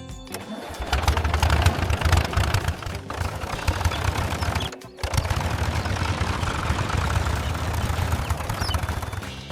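Tractor engine running with a steady low rumble, cut off abruptly for a moment about five seconds in, then running again.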